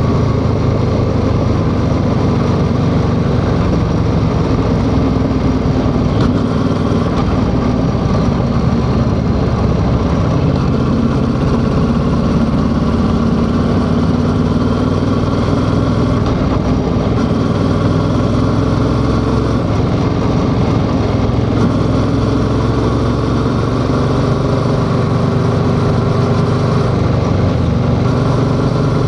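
Yamaha XSR700's parallel-twin engine running steadily under way, its pitch drifting only gently as the throttle holds near constant.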